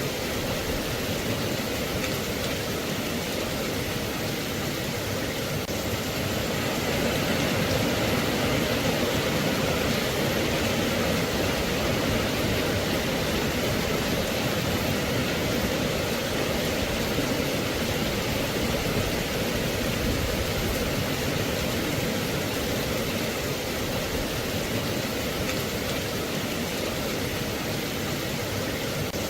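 Steady rain falling, an even hiss, growing slightly louder about seven seconds in.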